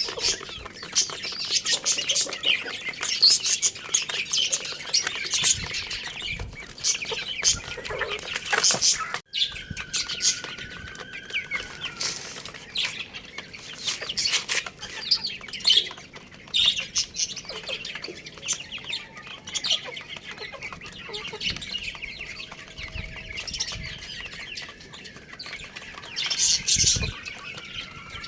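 Chickens: dense, rapid chick cheeping mixed with hen clucking and wing flaps. The sound drops out abruptly for a moment about nine seconds in.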